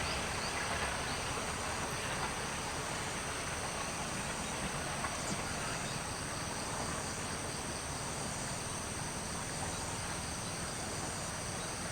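High insect trilling, like crickets, that comes and goes in pulses over a steady low rumble that eases slightly.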